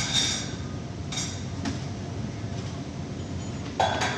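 Three sharp metallic clanks, about a second apart at first and again near the end, over a steady low machine rumble.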